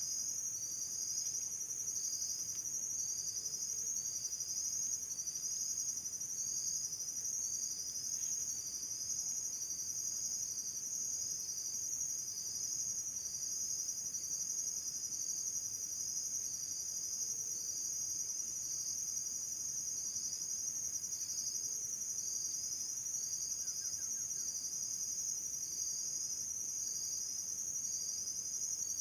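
Chorus of insects such as crickets: one keeps up a continuous high-pitched trill while another repeats short chirps just below it, about one and a half a second, steadily throughout.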